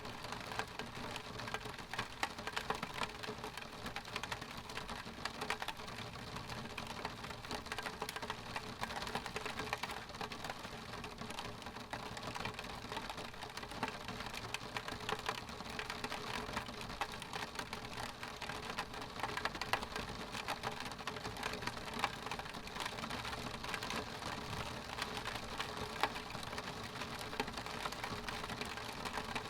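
Steady rain pattering on a window pane: a dense, even run of small drop ticks on the glass.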